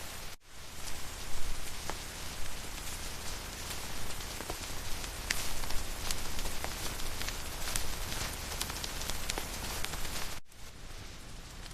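Rain falling steadily, with many individual drops ticking close by. The sound cuts out for an instant about half a second in, and near the end it changes to softer, duller rain.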